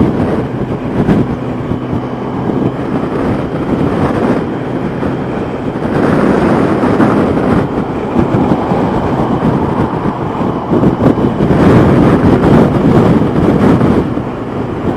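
Wind buffeting the microphone on a motorcycle at highway speed, over the steady drone of a Yamaha FJR1300's inline-four engine. The buffeting grows louder about six seconds in and again around twelve seconds.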